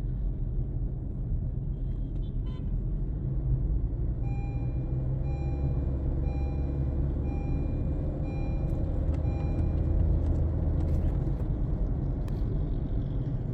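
Honda Civic 1.5 turbo on the move, a steady low engine and road rumble heard from inside the car. About four seconds in, an electronic beep starts repeating roughly once a second for about five seconds.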